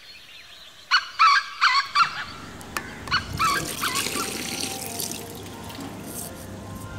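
A quick run of harsh bird calls, about five in a second, with a few more just after. Then water runs from an outdoor tap.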